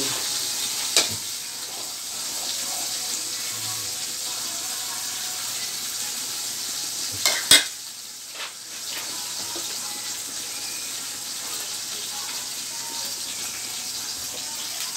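Food frying in oil in a wok, a steady sizzle. A utensil clicks against the pan about a second in, and there is a louder short clatter about halfway through.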